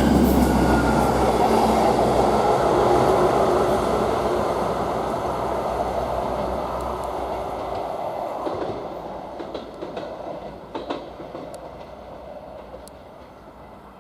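East Midlands Railway Class 158 diesel multiple unit passing through and fading away as it moves off, its diesel engine running and its wheels on the track. A few sharp wheel clicks over the rail joints come as it recedes.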